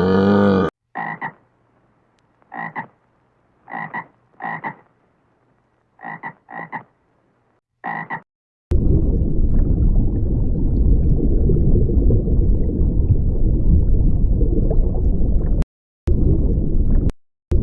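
A frog croaking in short, separate calls, about seven of them over several seconds. These are followed by a loud, dense, continuous low sound lasting several seconds.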